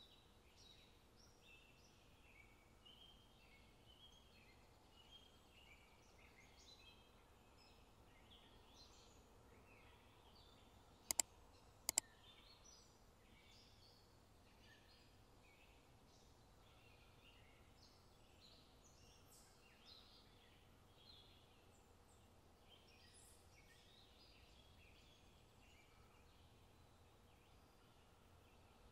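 Near silence with faint bird chirps scattered throughout, broken by two sharp clicks about a second apart near the middle.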